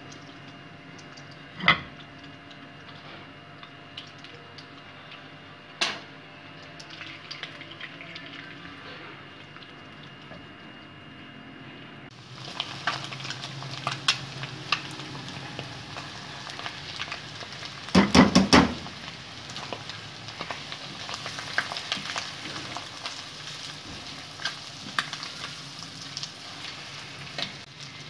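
Boiled egg pieces in oil in a nonstick wok, quiet at first with a few sharp clicks. About 12 s in, a louder, steady sizzle with crackling as chopped onions and butter fry with the eggs, and a quick run of about four loud knocks near the middle as the pan is stirred with a silicone spatula.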